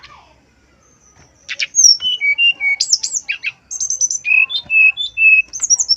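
Brown-chested jungle flycatcher singing. After a second and a half of quiet, a fast, varied song of high whistles, short sweeping notes and rapid trills.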